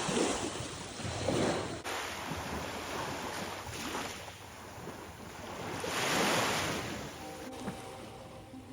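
Ocean waves washing in and drawing back, swelling loudest about six seconds in, with wind on the microphone.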